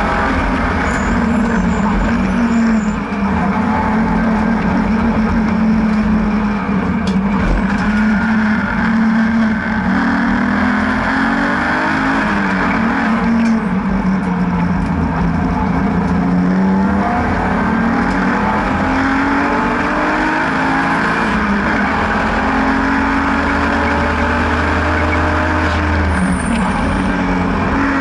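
BMW N52B30 3.0-litre naturally aspirated straight-six in an E36 track car, driven hard on track: the engine note rises and falls over and over as it accelerates and changes gear.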